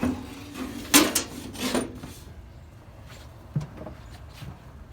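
A few sharp clunks and knocks in the first two seconds, the loudest about a second in, then a few faint clicks.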